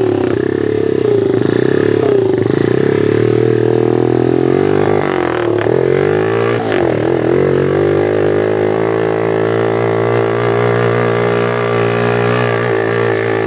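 Pit bike engine running steadily under load in low gear, its revs dipping about halfway through and then picking back up.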